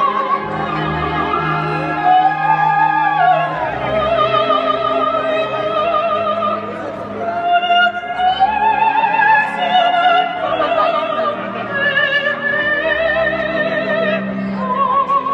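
An operatic soprano sings a slow aria with wide vibrato over an orchestra, played loud through a stadium sound system.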